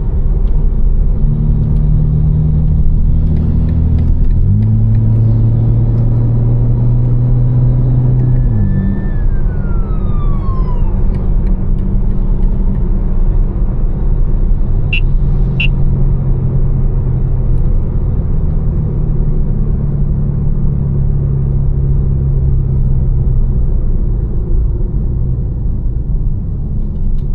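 Tuned BMW M4's twin-turbo straight-six, with catless downpipes and an Fi exhaust, running under way and heard from inside the cabin. A few seconds in, the engine note steps up and holds for about four seconds before dropping back, followed by a short falling whistle; two brief clicks come about halfway through.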